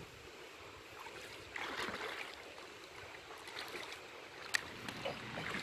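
River water moving and splashing at the edge, low and steady, with a brief louder rush of water about one and a half seconds in and a sharp click near the end.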